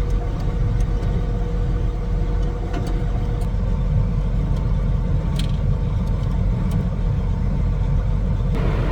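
Tractor engine running steadily, with a low rumble, a steady whine and a few light clicks.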